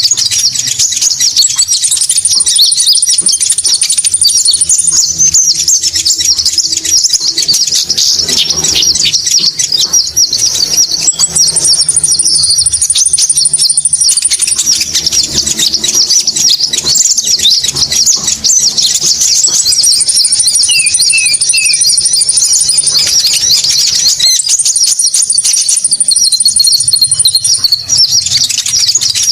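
Bird-lure recording of konin birdsong: loud, dense, rapid high chirping and twittering without a break, with a higher, even trill coming back every eight or nine seconds.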